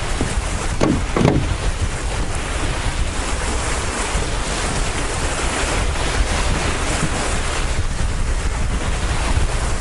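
Strong wind buffeting the microphone: a steady rush with a heavy low rumble, along with the wash of waves on open lake water.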